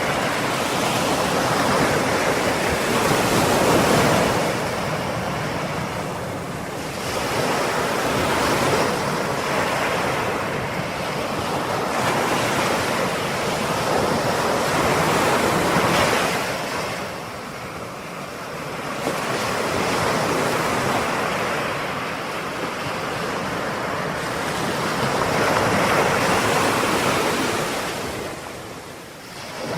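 Ocean surf: waves breaking and washing ashore in a continuous rush that swells and ebbs, with quieter lulls between sets about every 10 seconds.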